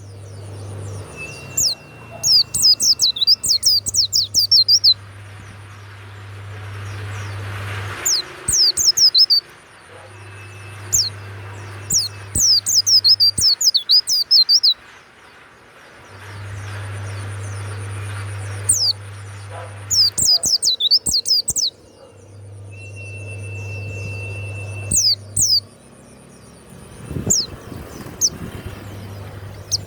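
White-eye (pleci) singing in bouts of fast, high twittering, each a few seconds long and repeated several times. A low hum starts and stops underneath.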